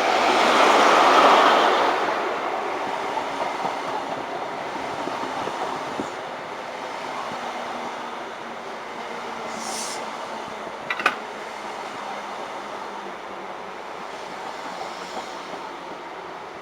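InterCity 125 high-speed train led by a Class 43 diesel power car running through the station. The noise is loudest about a second in and then slowly fades, with one short sharp clank about two-thirds of the way through.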